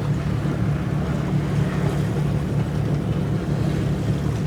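A boat engine running steadily, a low drone.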